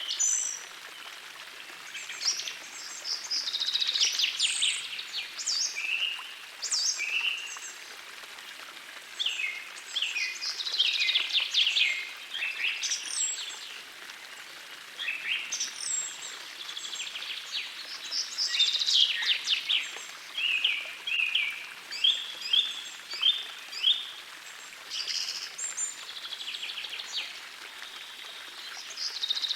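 Songbirds singing, with short phrases, quick trills and chirps following one another every second or two, over the steady hiss of a gentle forest stream.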